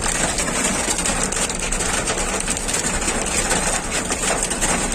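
Heavy rain falling: a steady, dense hiss of many small impacts.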